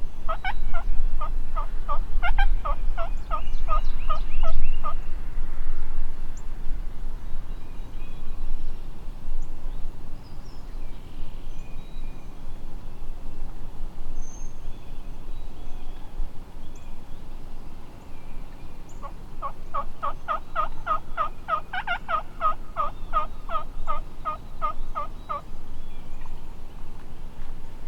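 Turkey yelping: a long run of evenly spaced yelps, about four a second, each note dropping in pitch. The run starts right away and lasts about five seconds, then a second run of about six seconds comes near the end.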